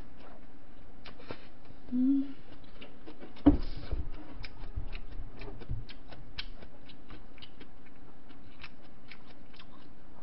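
Chewing ramen noodles and bean sprouts, a run of short wet mouth clicks, with a single knock about three and a half seconds in.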